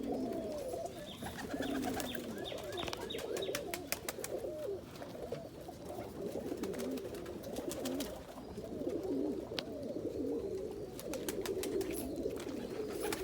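Several domestic pigeons cooing continuously, their low warbling calls overlapping, with scattered light clicks.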